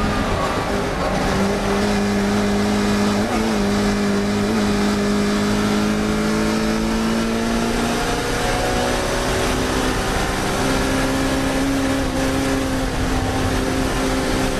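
Classic Mini racing car's four-cylinder engine running hard at high revs. Its pitch drops just after the start, holds and creeps up, then changes again about eight seconds in, as with gear changes and lifts for corners.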